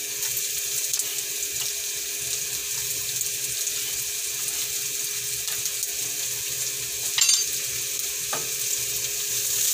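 Chopped red onion and golden-brown garlic sizzling steadily in hot oil in a nonstick wok, the first stage of a sauté. A short clatter about seven seconds in and a smaller knock just after eight seconds come as a wooden spoon starts stirring, and the sizzle grows louder near the end.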